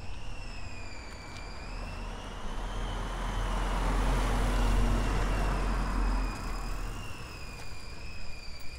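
A vehicle passes on the street, its tyre and engine noise swelling to a peak about halfway through and then fading. Over it runs a steady high-pitched whine that wavers slightly in pitch.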